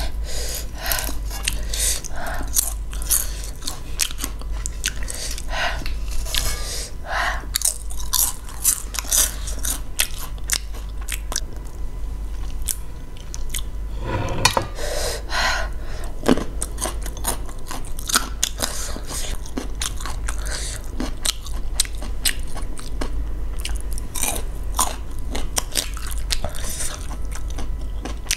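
Close-miked mouth sounds of someone eating cheesy spicy Buldak noodles: steady wet chewing with many short smacks and clicks.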